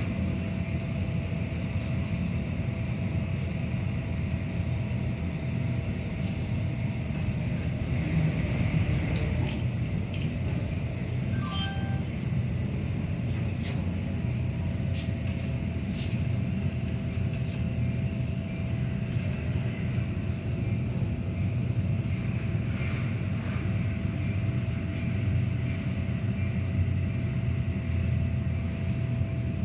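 Metra commuter train car rolling along the track: a steady low rumble with a faint constant whine.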